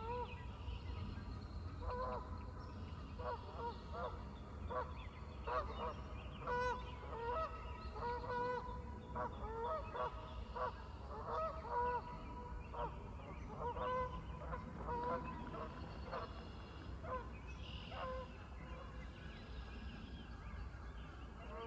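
Geese honking repeatedly, many short calls in quick succession. The calls come thickest through the middle and thin out toward the end.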